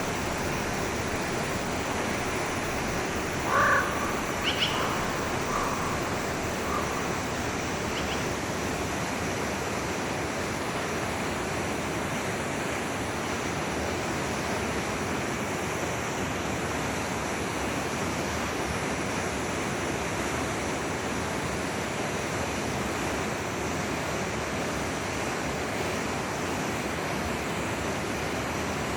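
Forest stream flowing steadily, with a few short animal calls about four seconds in.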